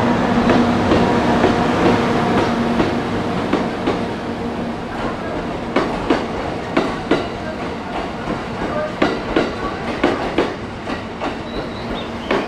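EF64 electric locomotive passing slowly with a steady hum, followed by a rake of new E131-series electric cars that it is hauling. The wheels click sharply over the rail joints, the clicks getting more frequent from about halfway through.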